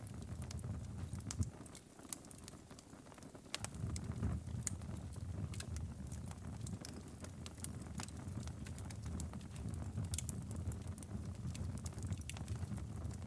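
Wood fire crackling with irregular sharp pops, over a steady low rumble that drops away briefly about two seconds in.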